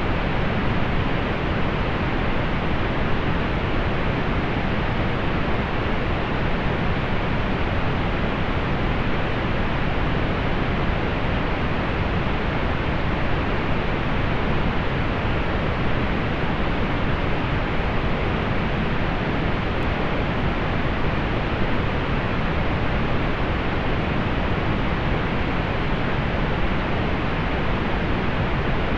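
Synthetic pink noise: a steady, even hiss weighted toward the low end, muffled with little above the upper treble.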